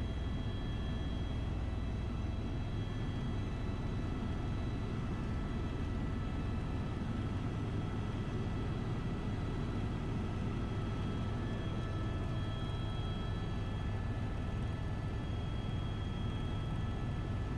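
Helicopter in flight heard from inside the cabin: a steady low drone from the rotor and engine, with several thin high whining tones over it.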